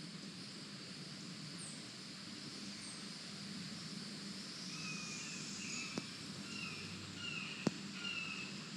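Swamp-forest ambience with a steady insect hum. About halfway through, a bird starts a series of short, evenly repeated call notes, roughly two a second. Two sharp clicks, like snapping twigs, come near the end.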